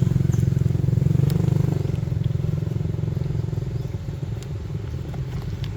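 A small engine running steadily with a fast pulsing beat, growing quieter about two seconds in, with a few light clicks.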